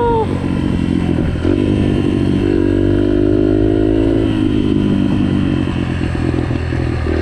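A 2016 Yamaha 125 dirt bike's engine running under way on a trail, with the revs climbing for a couple of seconds in the middle before easing back.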